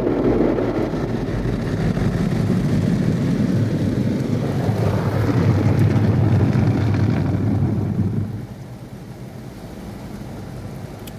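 Istobal M'Wash 3 Pro five-brush rollover car wash running over a car, a loud rumbling, hissing wash noise that swells for a few seconds and then drops off sharply about eight seconds in.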